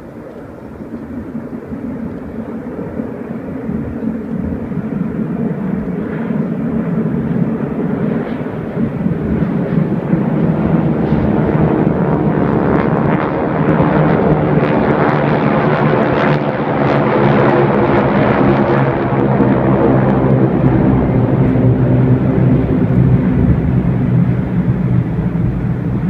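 Fixed-wing aircraft flying in formation pass overhead, their engines droning. The sound grows louder over the first ten seconds, wavers as they pass, and stays loud to the end.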